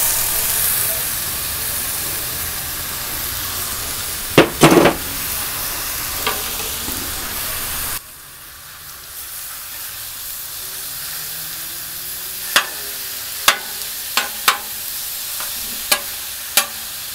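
Sliced zucchini noodles dropped onto a hot, oiled steel flat-top griddle hiss loudly and keep sizzling in the oil, with sharp clacks of a metal spatula against the griddle as they are tossed. The sizzle drops in level about halfway through.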